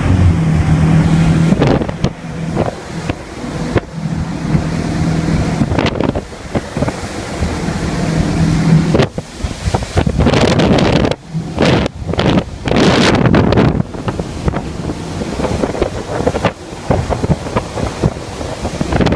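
Nautique G23 wakeboard boat's inboard engine running at speed on plane, a steady drone, with gusty wind buffeting the microphone; the wind gusts grow stronger and cover the engine from about nine seconds in.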